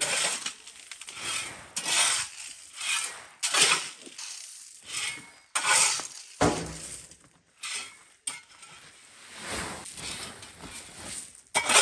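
Loose corn kernels rattling and pouring as they are scooped up and bagged, in a run of hissing rushes about once a second or so, with one dull thud about two-thirds of the way through.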